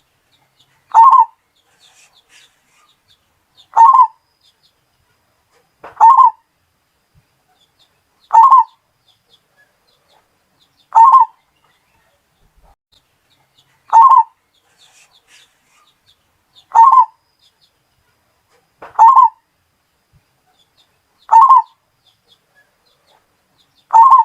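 Zebra dove (perkutut) cooing: short calls repeated about every two and a half seconds, ten in all.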